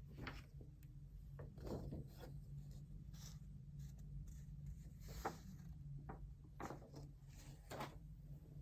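Writing by hand on paper: short, irregular scratching strokes, some sharper than others, over a steady low room hum.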